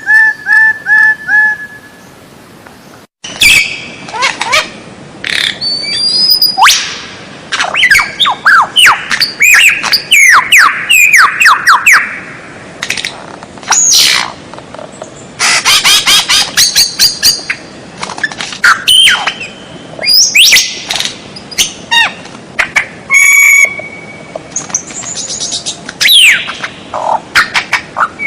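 A bird repeats a honking two-tone note several times. After a short break, a songbird pours out a rapid, varied song of whistles, fast downward-sweeping notes, trills and harsh squawks, as heard on a song-tutoring recording.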